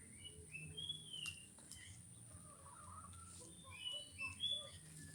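Faint bird chirps: a few short, high calls early on and another cluster about four seconds in.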